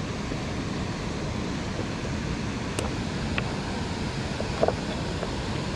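Steady rushing wash of falling rain and running spillway water, with a few faint ticks.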